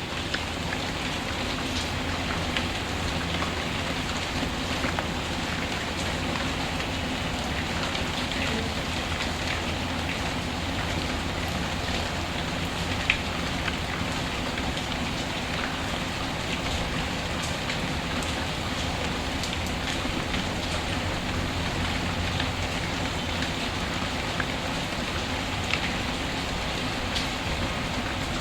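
Steady rainfall with occasional small crackles and pops from a wood fire, one sharper pop about 13 seconds in.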